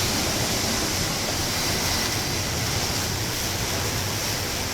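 Steady rush of hurricane wind and heavy rain, an even hiss with a low rumble underneath.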